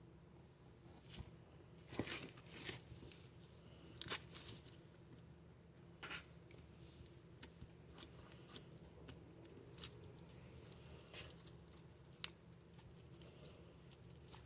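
Faint, irregular rustling and crinkling with scattered sharp clicks, loudest in bunches about two and four seconds in, over a low steady hum.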